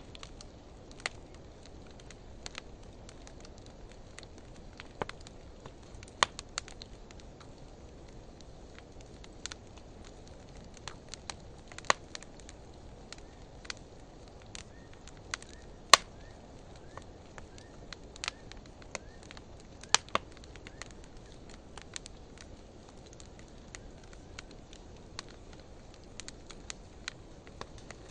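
A wood fire of driftwood and dry hardwood burning in a fire pit: a steady low flame noise with scattered, irregular crackles and sharp pops, the loudest pop about halfway through.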